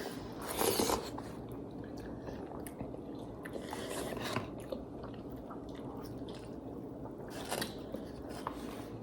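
Close-up eating sounds: chewing and biting, with small wet clicks and a few short, louder smacks, about a second in, around four seconds and seven and a half seconds in.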